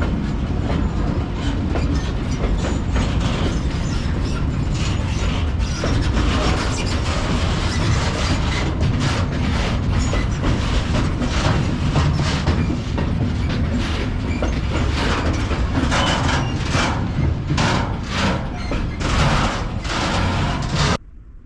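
Freight train passing close by: a steady low rumble of the wagons, with a fast clickety-clack of wheels over the rail joints, which cuts off suddenly near the end.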